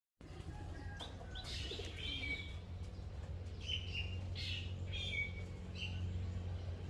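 Small bird chirping: a series of short, high call notes about once a second, some sliding downward, over a steady low hum.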